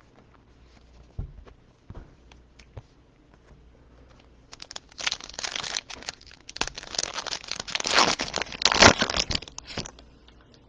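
Foil wrapper of a trading card pack being torn open and crinkled. A few light clicks come first, then about five seconds of dense crinkling and tearing starting some four and a half seconds in.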